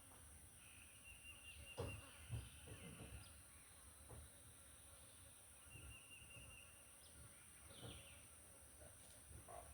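Quiet outdoor ambience: a short high trill repeats several times, over a steady high hiss, with a few faint knocks about two seconds in and again near eight seconds.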